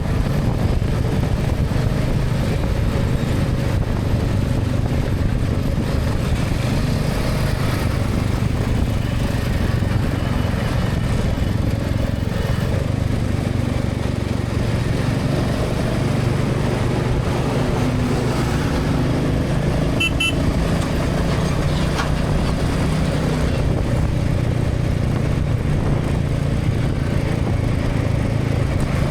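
Motorcycle engine running steadily at cruising speed under a constant rush of wind and road noise, as heard from a helmet camera. A brief high repeated beep sounds about two-thirds of the way through.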